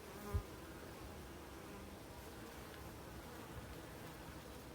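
Honeybees buzzing steadily with busy traffic at a hive entrance. A short low thump comes about half a second in.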